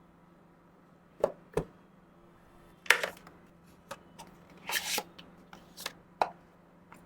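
Earphone box and packaging being handled during an unboxing. Two light knocks about a second in, then a short scrape, a longer rustle a couple of seconds later, and a sharp click near the end.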